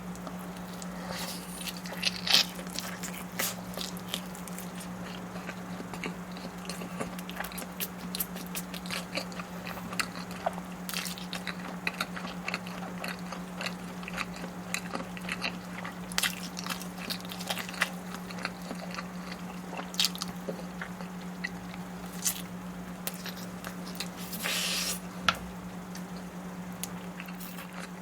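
Close-miked eating: chewing and biting with many small crunches and crackles, over a steady low hum. A short, louder rush of noise comes a little before the end.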